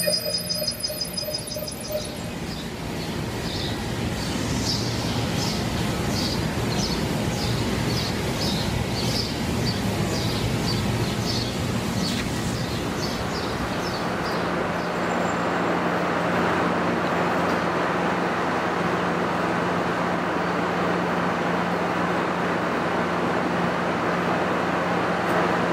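Alley ambience: a bird chirps over and over, about twice a second, for the first half. From about halfway on, a steady rushing din with a low hum fills the background.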